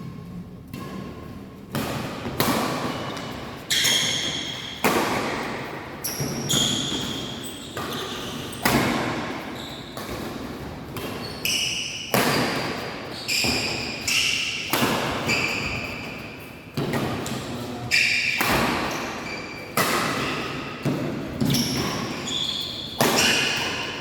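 Badminton rally: sharp racket hits on the shuttlecock about once a second, each echoing in a large hall, with short high squeaks between them.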